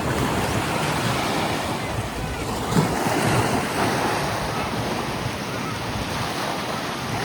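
Steady rush of sea waves and wind, with a brief sharp knock about three seconds in.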